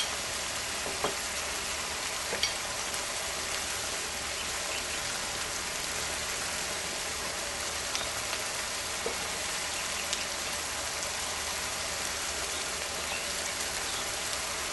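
Ground meat, onion and peppers sizzling steadily in a frying pan, with a few small pops and crackles.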